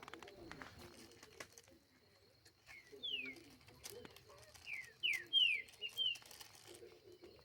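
Wild birds calling: a series of short, sharply down-slurred whistled notes, one about three seconds in and a quick run of five or six near the end, over softer low notes.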